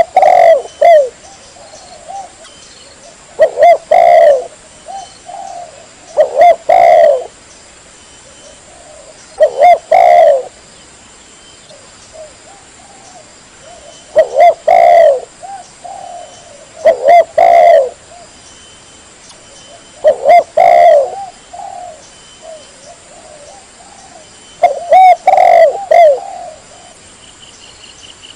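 Spotted dove (tekukur) cooing: a loud, clear phrase of coos repeated about every three to four seconds, eight times, with softer coos between.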